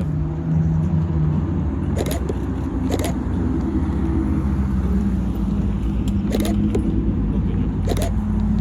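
A car engine running at a steady idle, with four short clicks over it.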